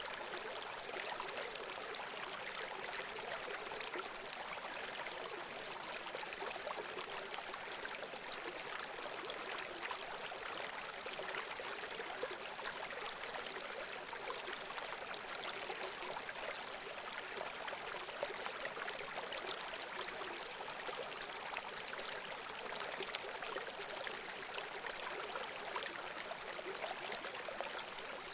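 Running water of a stream, a steady even splashing rush with fine trickling detail.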